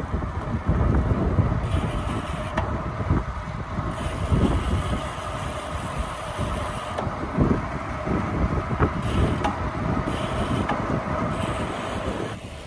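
Wind buffeting the microphone on a gravel bike being ridden into a strong headwind, in uneven gusts, over a steady hum from the moving bike.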